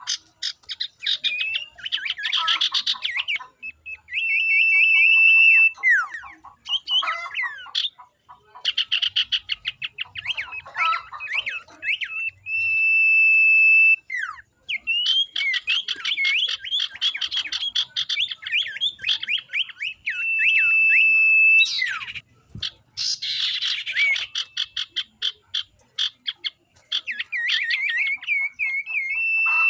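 A group of common ioras (cipoh, called 'sirtu' by bird keepers) calling together. Rapid chattering trills and quick sweeping notes alternate with long, steady, high whistles, over and over.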